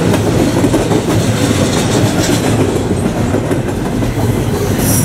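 Double-stack intermodal container cars rolling past on steel wheels: a steady rumble and rattle with the clickety-clack of the wheels over the rail.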